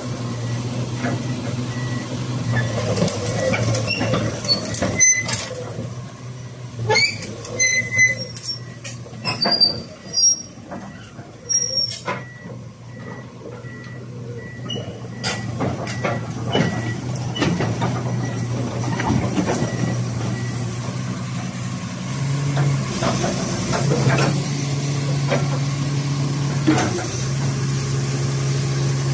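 Komatsu PC450 excavator's diesel engine running steadily, with a run of sharp clanks and short high squeaks during the first half. Past the middle the engine note rises a little and grows louder.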